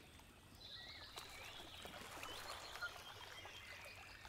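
Faint birdsong: several small birds chirping and calling in short, quick rising and falling notes.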